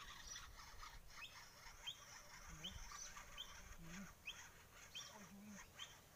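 Faint bird calls: a short, sharp, high chirp repeated about every 0.7 s, with a few lower calls in between.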